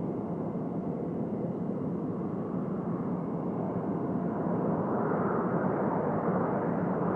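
Jet engine noise from a Saab JAS 39 Gripen fighter: a steady rushing drone that grows louder and brighter over the second half.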